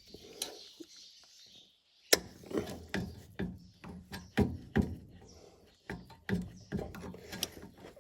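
Vice grips clicking and scraping on a bent cotter pin in the combine's arm linkage. There is a sharp click about two seconds in, then irregular metal clicks and knocks, several a second, as the pin is worked to straighten it.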